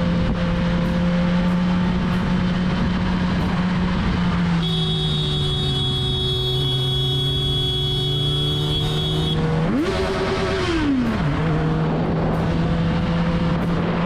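Motorcycle engine running at a steady pitch under a hiss of wind noise. It drops lower about a third of the way in, and about ten seconds in there is one short rev that rises and falls again before it settles back to the steady tone.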